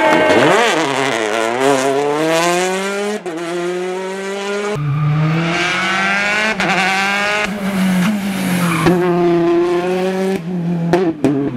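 Rally car engines accelerating hard at full throttle, their pitch climbing between gear changes, heard in several short clips cut one after another with abrupt breaks between them.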